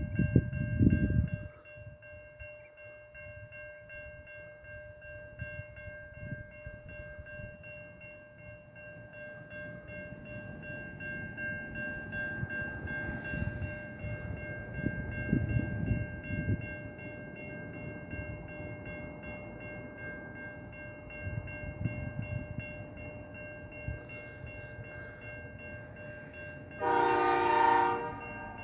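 Train rumbling along, with a steady high-pitched whine of several tones, and one short train horn blast of about a second and a half near the end.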